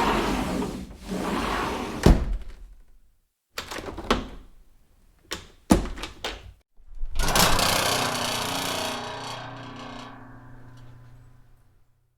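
Door sound effects: a door swung and shut with a sharp thunk about two seconds in, then a run of latch and handle clicks, then a loud slam near the middle whose ringing fades out over several seconds.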